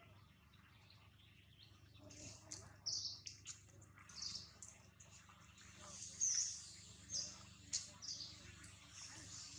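Small birds chirping, short high chirps coming again and again from about two seconds in, with a few faint clicks.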